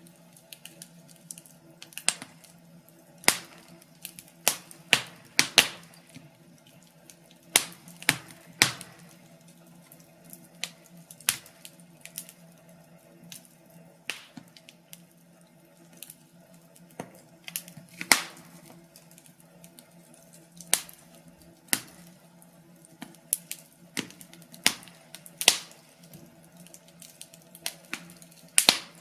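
Wood fire crackling in a fireplace: irregular sharp pops and snaps, roughly one a second, some much louder than others, over a faint steady hum.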